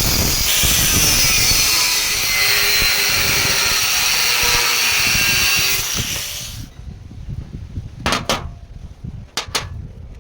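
A power tool cutting under load with a steady whine, stopping abruptly about six and a half seconds in; a few sharp knocks follow.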